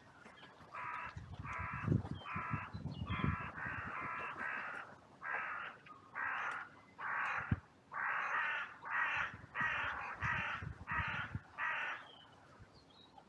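Crow cawing: a long run of about fifteen harsh caws in quick succession, roughly one every three-quarters of a second, stopping about a second before the end.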